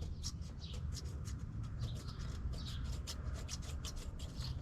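Razor blade scraping old gasket residue off the Oldsmobile 350 V8's thermostat gasket mating surface in many short, quick strokes.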